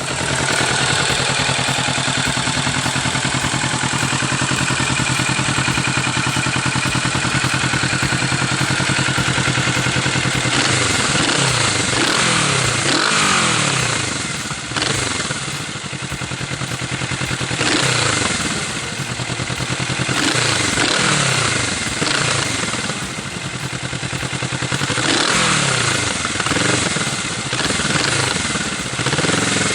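Kawasaki Vulcan S 650's parallel-twin engine through an Arrow aftermarket exhaust, running steadily for about ten seconds, then revving up and down over and over.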